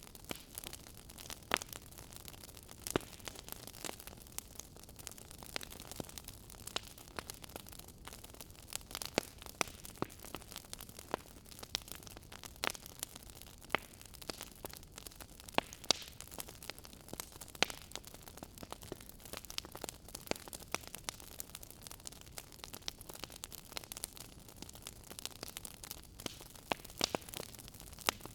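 Wood fire in a fireplace crackling, with steady sharp pops and snaps at irregular intervals over a soft hiss of burning.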